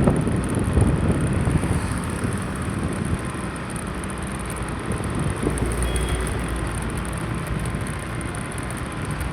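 Road vehicle noise with wind rumbling on the microphone, louder and gustier in the first couple of seconds, then steady.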